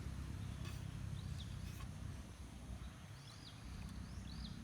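A small bird chirping repeatedly in short, hooked high calls over a steady low rumble.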